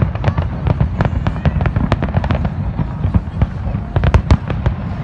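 Fireworks going off in a rapid, continuous barrage: many sharp bangs and crackles a second over a steady low rumble of explosions.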